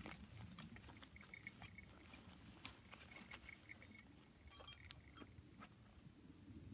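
Small twig fire crackling faintly in a fire stand, with scattered light clicks and a brief cluster of sharper clicks about four and a half seconds in.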